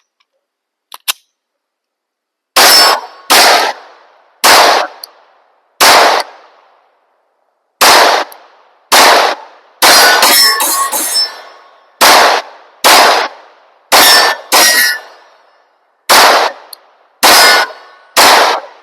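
9mm Glock 19-pattern pistol (a P80 polymer-frame build) firing a full magazine, about fifteen shots spaced roughly a second apart with a brief quicker run in the middle. It cycles shot after shot without a stoppage, the stovepiping cured by a 15-pound recoil spring.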